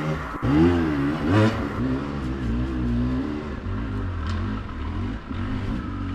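Dirt bike engine revving, its pitch rising and falling sharply in the first second and a half, then running more steadily at lower revs.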